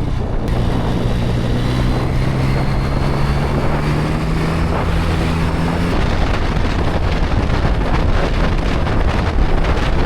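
Small motorcycle engine pulling away, its note rising steadily for about five seconds and then cutting off abruptly, under heavy wind noise on the microphone.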